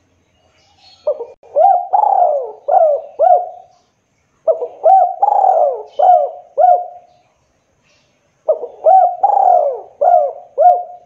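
Spotted dove cooing: three phrases, each a run of about five low, looping coo notes, with a pause of about a second between phrases.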